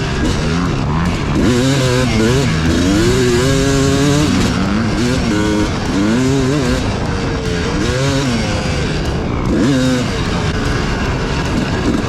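250cc dirt bike engine being ridden, revving up and falling back again and again as the throttle is worked and gears change.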